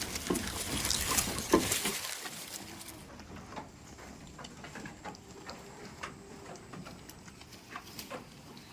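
Goats moving about in their pen: rustling and scattered taps and clicks, busier and louder for the first two seconds, then sparse.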